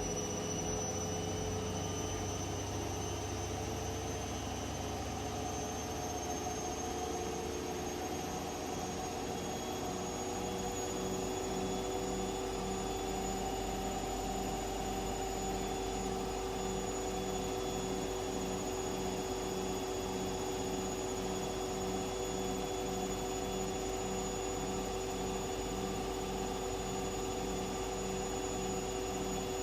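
Washing machine running: a steady motor whine that rises slightly in pitch over the first several seconds and then holds, with a soft regular pulse about one and a half times a second.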